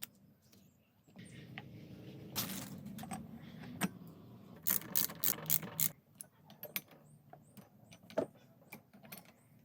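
Workshop handling noises: small mechanical clicks and knocks from parts and hand tools. About halfway through comes a quick run of about six sharp clicks, and a single louder knock follows near the end.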